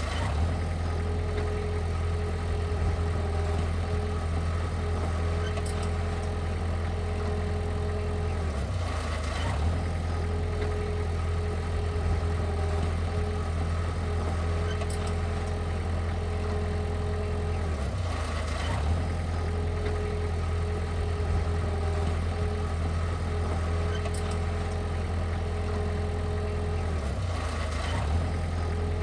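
Heavy diesel engine running steadily at a low, even hum, with a brief change in the sound roughly every nine seconds.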